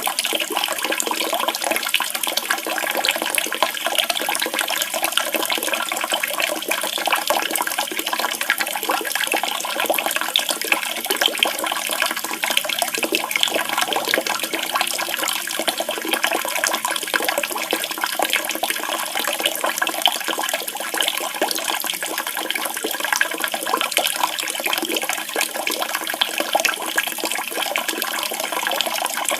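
Running, splashing water with a steady, even rush: a water-therapy recording of the kind played to caged songbirds.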